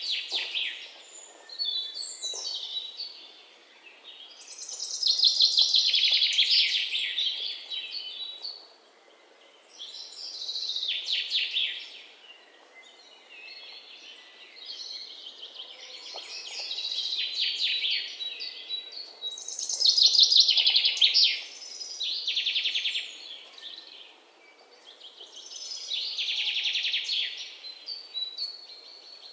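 A songbird singing: high-pitched phrases of rapid trilled notes, each lasting about two seconds and repeating every five or six seconds, over a faint outdoor background hiss.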